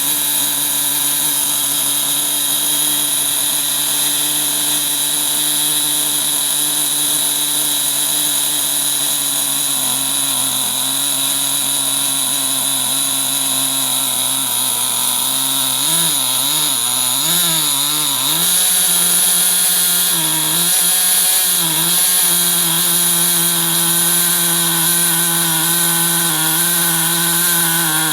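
Small two-stroke model glow engine fitted with a custom-machined piston, running at a steady speed. About two-thirds of the way through, its pitch wavers up and down for a couple of seconds, then it settles at a slightly higher steady speed.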